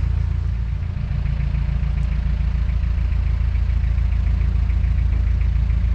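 Narrowboat's diesel engine running steadily at low revs, a deep drone with a light regular ticking over it; the note shifts briefly about a second in.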